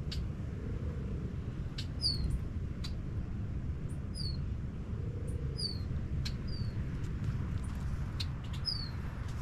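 A small bird chirping: short, sharply falling high chirps, repeated every second or two, over a low steady rumble of wind on the microphone.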